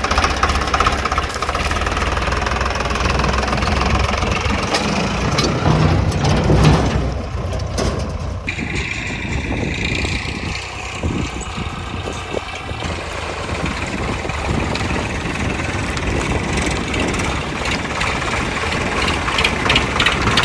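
Tractor diesel engine running steadily with a knocking clatter; the high hiss above it drops away suddenly about eight seconds in.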